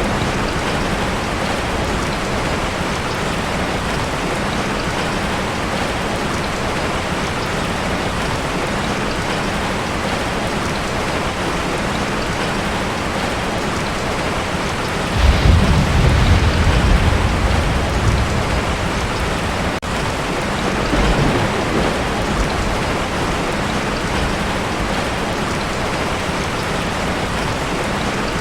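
Heavy rain falling steadily on a tin roof. About halfway through, a roll of thunder rumbles low for about three seconds, followed by a fainter rumble shortly after.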